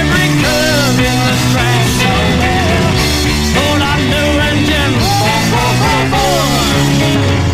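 Late-1960s rock band playing an instrumental break: a lead line with repeated pitch bends and slides over a steady bass and drum groove.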